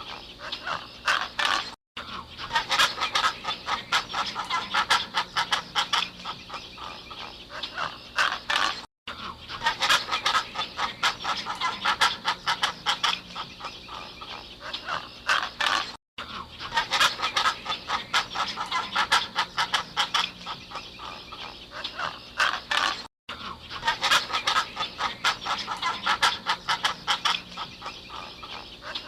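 A flock of birds calling in a dense, fast clamour. The same stretch of recording repeats about every seven seconds, each time after a brief dropout.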